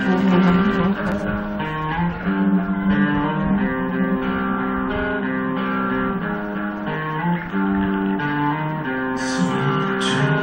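Guitar music: a plucked guitar playing held chords that change every second or so.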